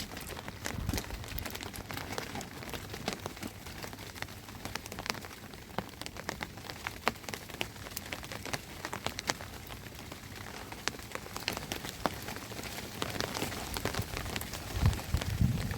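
Rain falling steadily, with many sharp individual drop impacts on a hard surface, and a short, louder low thump near the end.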